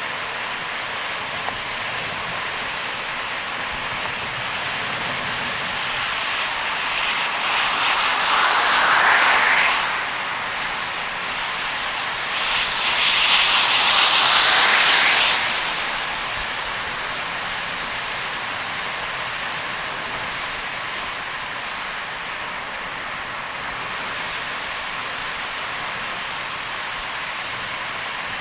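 Heavy rain and tyres hissing on a wet road while driving, a steady rushing noise, with two louder surges of spray hiss of about three seconds each, the first rising in pitch about a third of the way in, the second near halfway.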